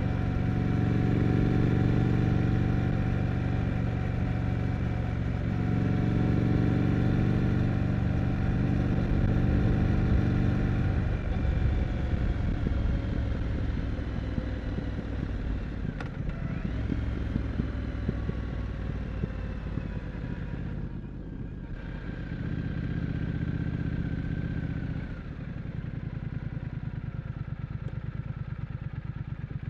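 Triumph Scrambler 900 parallel-twin engine running under way, its note rising and falling with engine speed, then settling into a steady low beat over the last few seconds.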